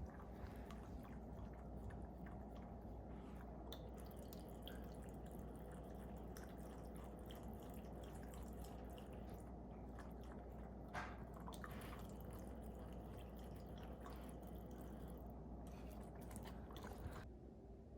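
Faint water drips and small wet clicks over a low steady hum, cutting off suddenly near the end.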